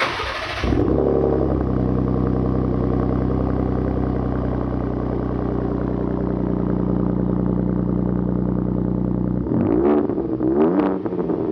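2019 Ford Raptor's twin-turbo V6 starting through a new AWE cat-back exhaust. The starter cranks briefly, the engine catches with a flare of revs and settles into a steady idle. Near the end it is blipped two or three times.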